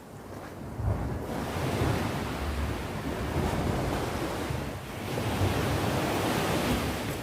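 Sea waves breaking on the shore: the surf swells up about a second in, eases briefly near the five-second mark, then a second wave washes in.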